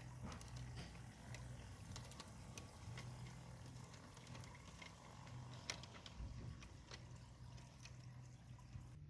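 G-scale model train running on garden track: a faint low motor hum that comes and goes, with scattered light clicks.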